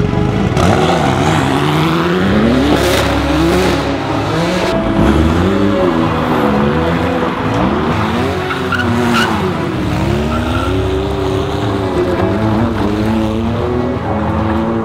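Jaguar XJ220's twin-turbocharged V6 being revved hard, its pitch climbing and dropping over and over as the car slides around, with tyres squealing on concrete.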